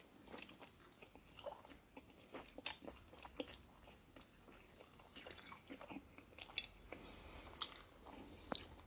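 A person chewing and eating a mouthful of instant ramen noodles close to the microphone: faint, with irregular mouth clicks and smacks scattered throughout.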